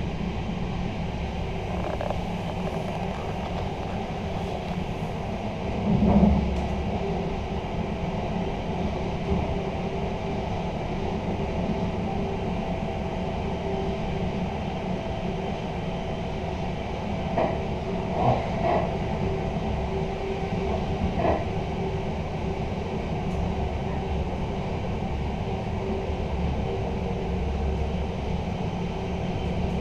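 Inside a passenger coach of an electric intercity train running at speed: a steady rumble of wheels on track with a constant hum. A louder thump comes about six seconds in, and a few short rattles follow in the second half.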